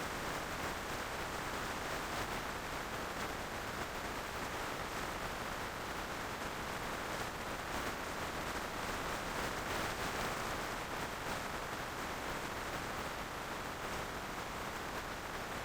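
Steady rush of wind noise over a helmet-mounted microphone while riding a motorcycle at speed, an even hiss with no engine note standing out.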